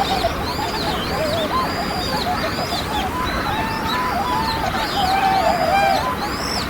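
A flock of birds calling with many overlapping calls: lower wavering calls mixed with repeated higher arching notes.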